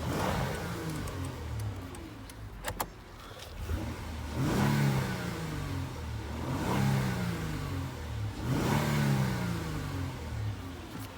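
2016 Honda Odyssey's 3.5-litre V6 engine running, with a surge at the start that settles toward idle. From about four seconds in it is revved three times, each rev rising and dropping back, about two seconds apart.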